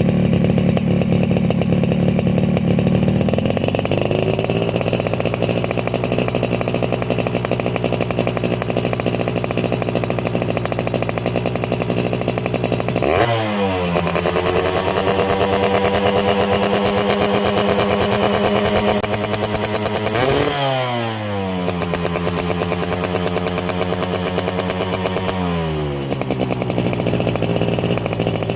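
Yamaha RX-King two-stroke single-cylinder engine running through its original stock exhaust, mostly at a steady idle. The throttle is blipped sharply about halfway through and again a few seconds later, each time falling back to a steady run.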